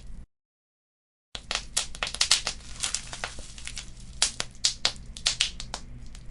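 Wood fire crackling in a fireplace: irregular sharp pops and snaps of burning embers over a low steady rumble. The sound drops out to dead silence for about a second near the start, then resumes.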